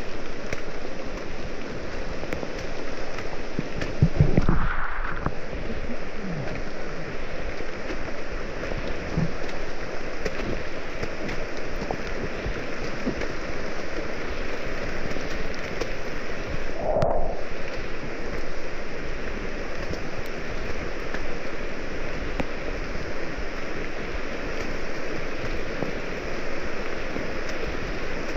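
Steady heavy rain falling, with a low thump about four seconds in.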